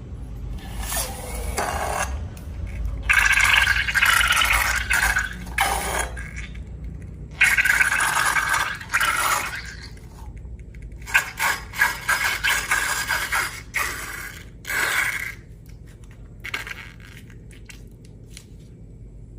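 Scraping and stirring while making slime, in noisy stretches of a few seconds each with short pauses between, fading to quiet rustles after about 16 seconds.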